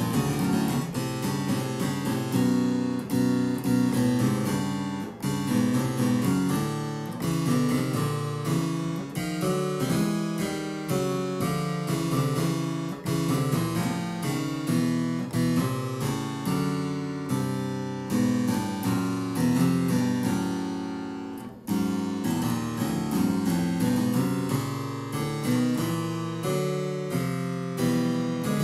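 Harpsichord tone playing a steady stream of quick plucked notes, with a brief break about 21 seconds in.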